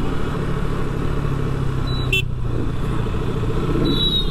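Motorcycle engine running steadily with road and traffic noise while riding, with a short high-pitched beep about two seconds in.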